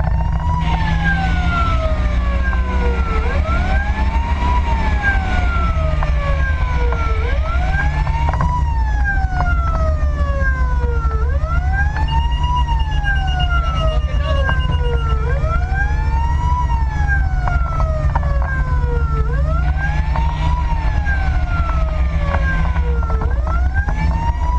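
Fire engine's siren wailing, its pitch rising and falling about every four seconds, over the truck's steady low engine and road rumble.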